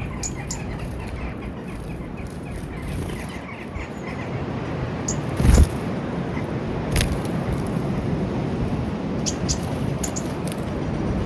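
Small birds giving short, high chirps every second or two over a steady low rumble of wind or distant traffic, with one brief low thump about five and a half seconds in.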